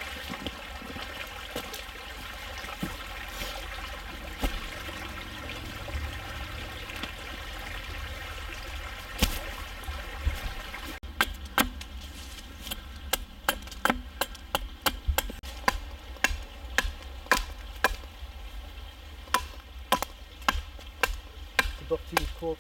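Water trickling steadily. About eleven seconds in it gives way to a quick run of sharp, hard knocks of wood being struck again and again, somewhat under two a second.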